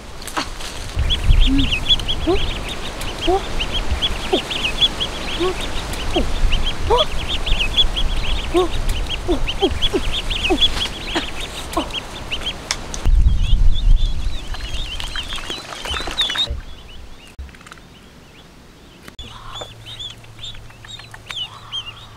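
Birds calling: a dense stream of short, high chirps with lower rising calls mixed in, which stops abruptly about sixteen seconds in. Fainter, scattered chirps follow. There are low rumbles twice, near the start and about thirteen seconds in.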